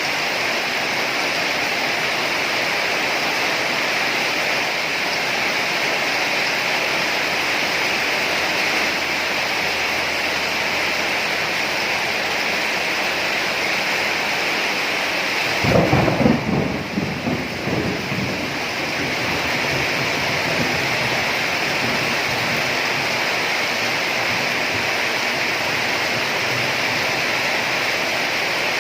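Steady heavy rain, with a sudden crack of thunder about halfway through that rumbles for a few seconds and dies away.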